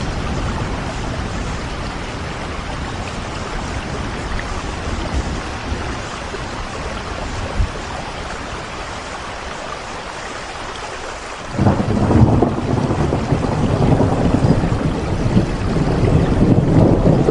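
Steady rain with a low rumble of thunder underneath; about two-thirds of the way in, a louder rumble starts suddenly and keeps going.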